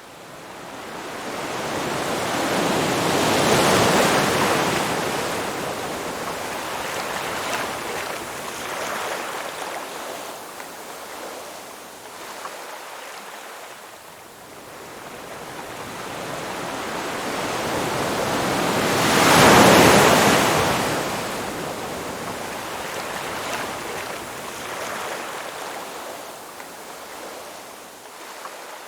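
Ocean waves breaking on a shore: two large waves peak about four seconds in and again near twenty seconds, each fading into a long hiss of receding surf.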